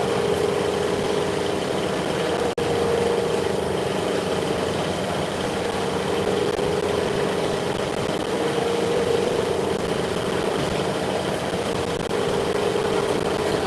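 Machinery running with a steady hum, a strong mid-pitched tone over a constant rush of noise and a faint high whine. It cuts out for an instant about two and a half seconds in.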